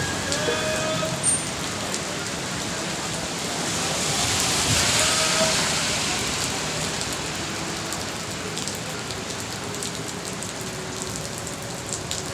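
Steady winter rain falling, an even hiss of drops on surfaces. About four to six seconds in, a broad swell of hiss rises and fades.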